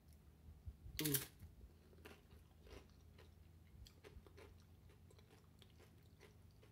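Mouth biting into and chewing a loaded nacho made with nacho cheese Doritos tortilla chips. The loudest crunch comes about a second in, followed by a run of small crisp crunches as the chip is chewed.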